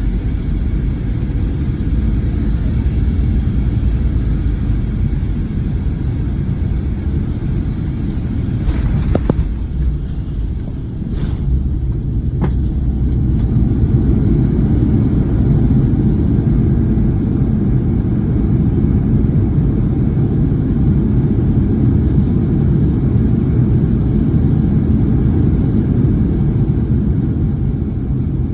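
Steady low rumble of cabin noise inside a Boeing 737-900ER, from its engines and airframe. A few brief clicks or knocks come in the middle.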